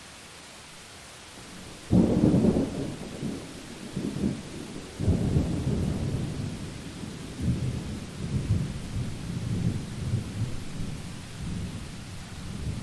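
Steady rain hiss, then about two seconds in a sudden loud clap of thunder that rolls on in deep rumbling waves, surging again a few seconds later and dying away near the end.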